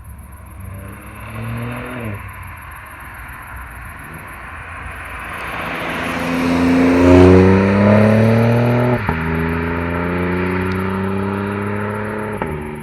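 BMW 120i's B38 three-cylinder engine through a DCE valved catback exhaust, accelerating. It revs up briefly and drops about two seconds in. Then comes a longer, louder pull peaking around seven seconds in, and a sudden drop in revs with a sharp crack about nine seconds in, as at a gear change. The revs climb again and fall off near the end.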